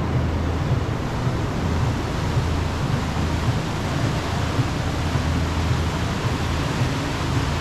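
Tour boat underway: a steady engine drone under a constant rush of wind and water.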